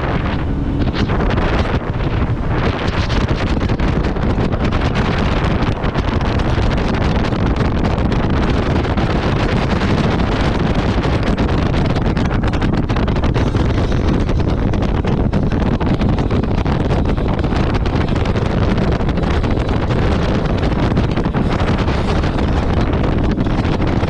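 Heavy wind buffeting the microphone over a jet ski engine running steadily on the water.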